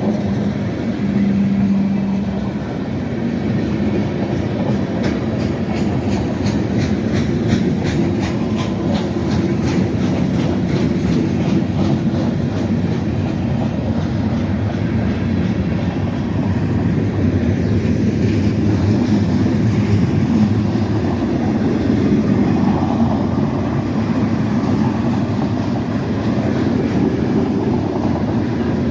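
A freight train rolling past with a steady rumble of wheels on rail, and rhythmic clickety-clack of wheels crossing rail joints from about five to ten seconds in.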